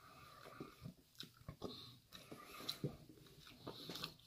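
Faint close-up chewing of a person eating, with irregular small mouth clicks and smacks.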